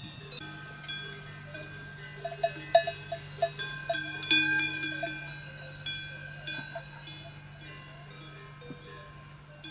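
Livestock bells clanking and ringing irregularly, several bells overlapping with clear ringing tones. A run of short, quick notes comes about two to three and a half seconds in, over a low steady hum.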